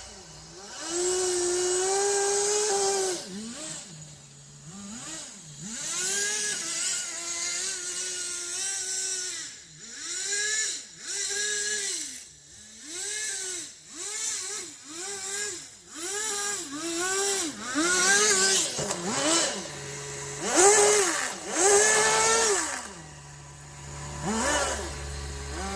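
Kyosho Blizzard RC snow vehicle's small two-stroke nitro glow engine revving up and down over and over, the throttle blipped about once a second, dropping back to idle between bursts.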